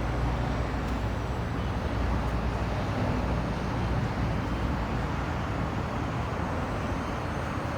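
Steady low vehicle rumble with an even level.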